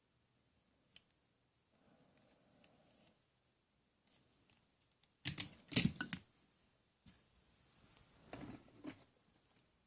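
Objects being handled: scattered faint clicks, then a quick cluster of sharp knocks and clatter about five to six seconds in, and softer rattling near the end.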